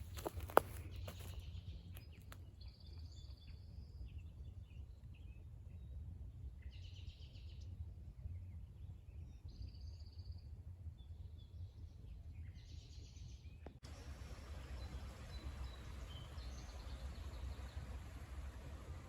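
Songbirds calling in several short, high phrases over a steady low rumble, with one sharp click just after the start.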